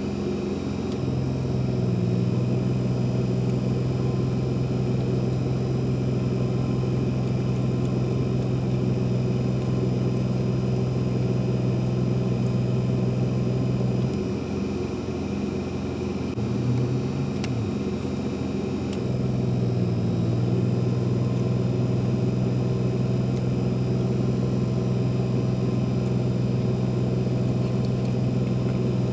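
A steady low engine hum that weakens about fourteen seconds in and comes back strongly around nineteen seconds.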